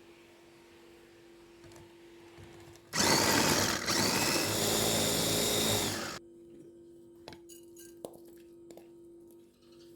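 Small electric kitchen appliance motor, blender-type, running in one burst of about three seconds with a steady whine, starting and stopping abruptly. Around it, light clicks and taps of kitchen handling.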